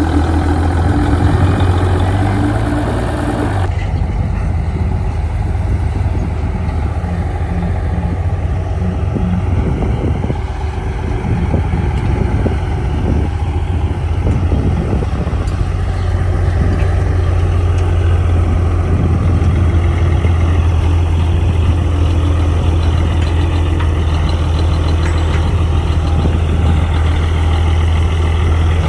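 Heavy construction machine's diesel engine running steadily with a deep, even hum. The higher-pitched noise drops off abruptly about four seconds in.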